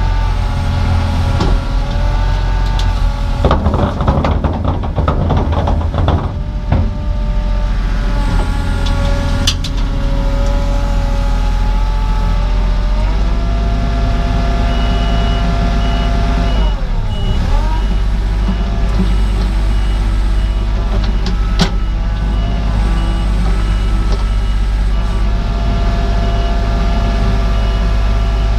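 Diesel engine of an earthmoving machine running under hydraulic load, its pitch sagging and recovering as it works. There is a rattle of knocks and clatter a few seconds in, and a couple of sharp cracks. From about halfway, a reversing alarm beeps steadily.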